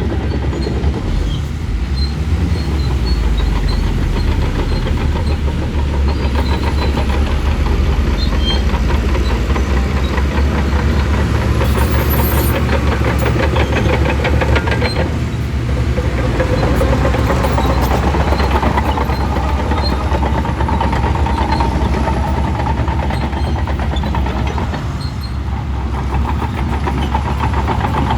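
Shantui crawler bulldozer working, its diesel engine running under load over the clank and rattle of the steel tracks. A steady whine comes in about halfway through.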